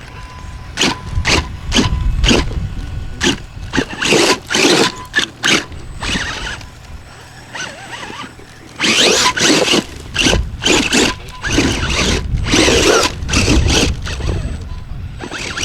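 Radio-controlled scale off-road car driven on the track in short bursts of throttle for the first few seconds, then a longer, busier run from about nine seconds in.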